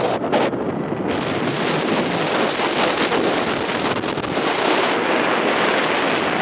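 Loud wind rushing over the microphone on a moving roller coaster, a steady rush with a few brief dips.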